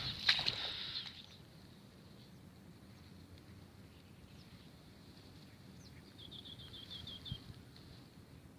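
A rustling, crackling noise that stops about a second in, then a quiet outdoor background with a small bird's short trill of about eight quick high notes near the end.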